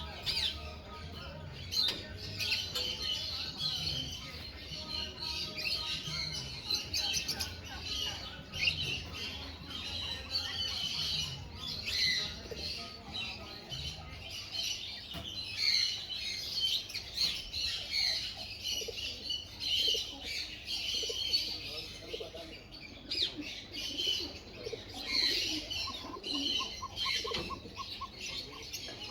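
Sun conure chattering and chirping: many short high calls, overlapping and almost unbroken, over a low steady hum.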